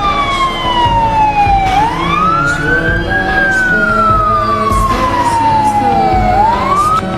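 Ambulance siren wailing. One slow tone falls, rises to its peak about three seconds in, falls slowly for about three seconds, then rises again near the end.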